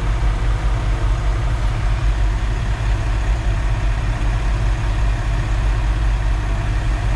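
Concrete mixer truck's diesel engine running steadily with a deep, even hum, keeping the drum turning during a pour.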